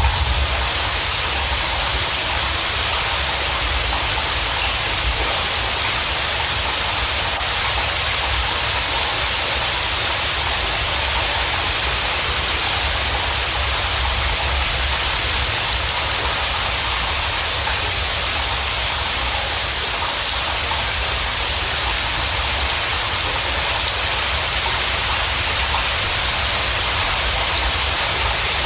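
Steady heavy rainfall: an even, unbroken hiss of rain with a low rumble underneath.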